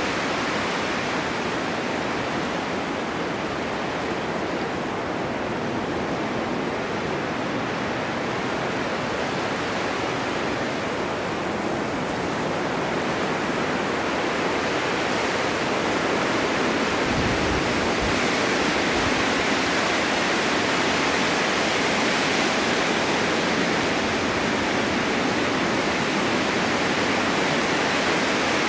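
Snowstorm wind blowing steadily, a continuous hiss that swells and grows slightly louder in the second half, with a brief low rumble a little past the middle.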